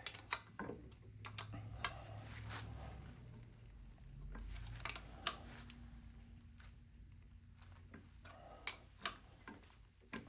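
Scattered light clicks and taps of tools and small metal parts being handled on a workbench, coming at irregular intervals.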